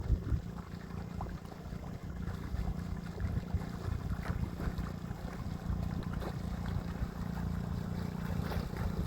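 Wind buffeting the microphone beside water, over a steady low hum.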